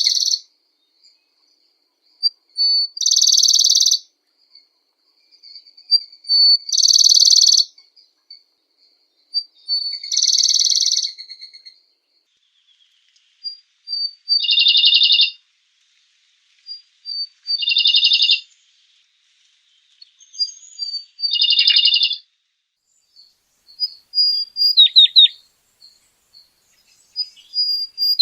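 Songbirds singing: short, high-pitched song phrases repeated about every three to four seconds, with thin single notes between them.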